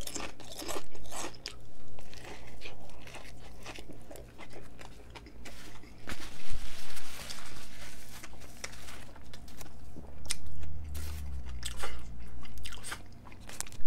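Close-miked biting and chewing of a toasted Subway B.M.T. sandwich, with many crisp crunches.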